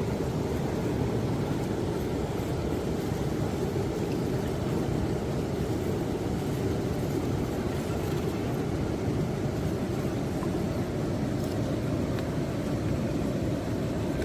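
Absima Sherpa RC scale pickup truck driving offroad: a steady running noise from its motor, drivetrain and tyres on the ground.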